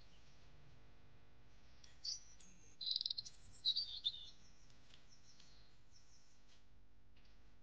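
A bird calling: a short high chirp about two seconds in, then two bursts of quick, high chirps over the next two seconds, over a faint steady background.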